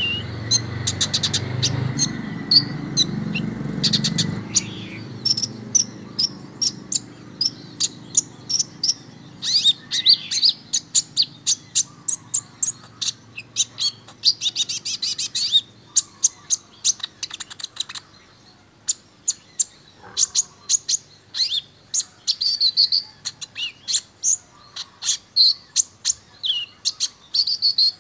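Olive-backed sunbird (kolibri ninja) singing: fast strings of sharp, high chips and trills broken by short pauses, with thicker rapid bursts in the middle. A low hum sits under the first few seconds.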